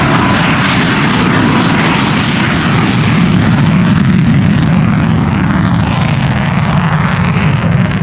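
Loud, steady engine noise of an aircraft flying at an airshow.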